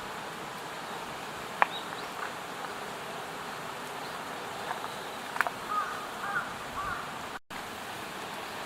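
Steady outdoor insect drone with a few sharp ticks and some short chirps about six seconds in. The sound drops out for an instant near the end.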